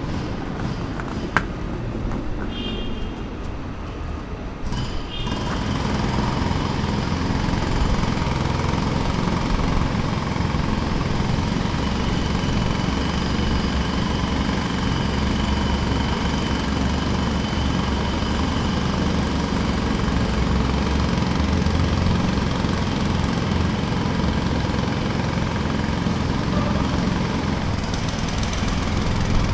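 Jackhammer hammering rapidly and continuously, starting up about five seconds in and running steadily after that.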